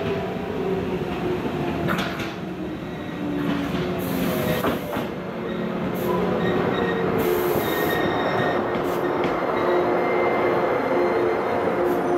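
A JR West 415-series electric train runs into the station. Its running tones slowly fall in pitch as it slows, over the rumble of the wheels on the rails, with short high squeals from the wheels and brakes.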